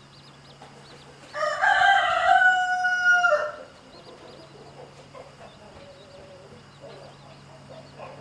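A rooster crows once, a loud call of about two seconds starting just over a second in, while chicks peep faintly.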